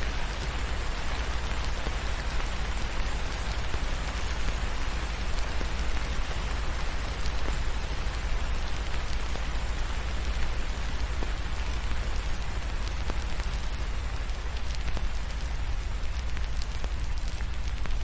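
Steady rain falling over a constant deep low rumble, with scattered faint crackles from a wood fire that grow more frequent near the end.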